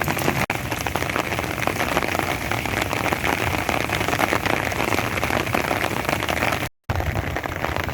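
Steady rain falling, a dense patter of many drops hitting surfaces. The sound cuts out for a moment near the end.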